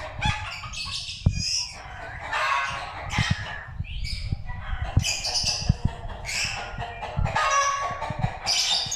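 Songbird nestlings' begging calls as a parent bird feeds them: a fast series of harsh, raspy squawks with a few light knocks among them.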